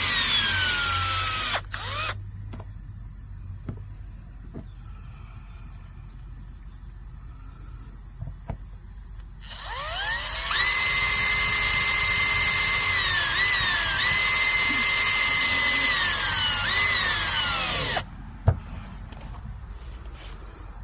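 Power drill driving screws: its whine winds down and stops about two seconds in, then after a pause spins up again and runs steadily for about eight seconds, dipping in pitch a few times under load as the screw bites, before cutting off.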